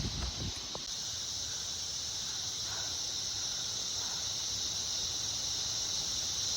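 Steady, high-pitched insect chorus buzzing continuously without a break.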